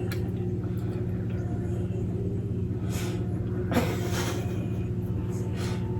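A steady low hum, with a few faint brief rustles about three and four seconds in.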